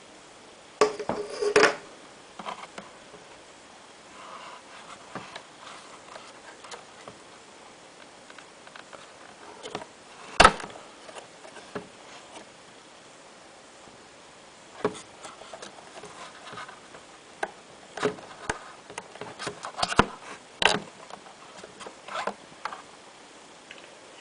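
Intermittent clicks, knocks and light rattles of bathroom ceiling ventilation fan parts being handled and fitted, with the sharpest knock about ten seconds in and a busier run of clicks near the end.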